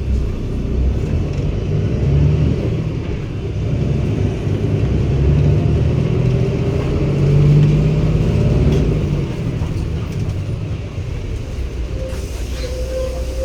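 Cummins ISB 280 PS Euro 6 inline-six diesel of a 2016 NEW BS090 city bus pulling under load, its drone building to a peak about halfway through and then easing off as the bus coasts. A steady tone comes in near the end.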